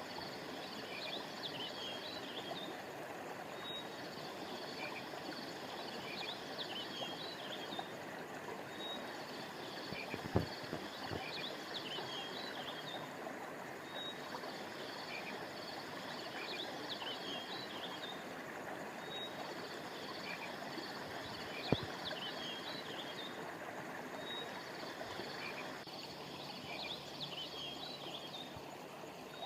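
A river running with a steady rush of water, with a high chirping phrase of small creatures repeating about every five seconds over it. Two sharp clicks come through, about ten seconds in and again near twenty-two seconds. The water sound thins near the end.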